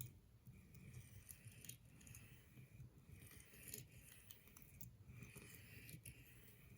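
Steel pocketknife blade stroked across an ultra-fine sharpening stone, faint soft scraping strokes about once a second, polishing the edge toward a mirror finish.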